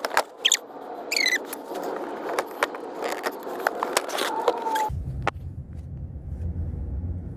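Plastic interior trim panel being pried loose inside a car: rapid clicks and snaps of trim clips, with a few short high squeaks of plastic rubbing. About five seconds in the sound cuts off abruptly to a low steady rumble.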